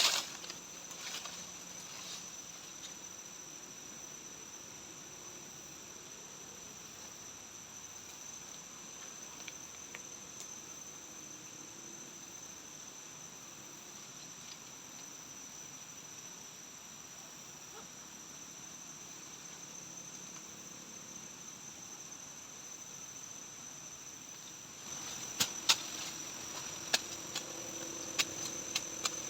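Forest insects chirring in one steady high-pitched tone. Near the end a run of sharp clicks or knocks and a low hum join in.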